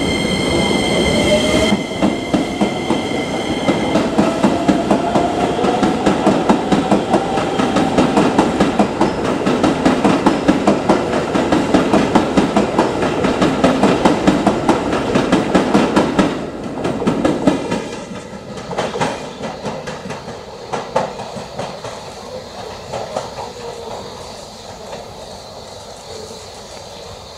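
Electric commuter train running past, its wheels clacking rhythmically over rail joints under a slowly rising motor whine, then dropping away and fading about two-thirds of the way through.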